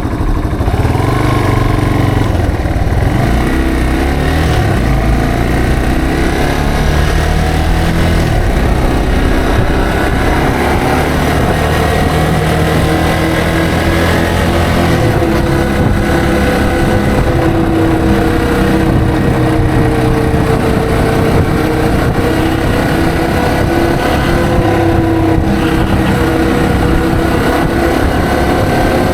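Yamaha TW225's single-cylinder four-stroke engine heard from the rider's seat, its pitch rising and falling several times in the first half, then running fairly steadily at cruising speed.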